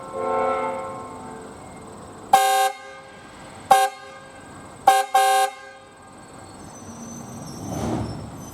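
A train horn tails off in the first second. Then a brighter, harsher horn sounds four blasts: one of about half a second, two quick toots, and a last half-second blast. A low rushing rumble swells near the end.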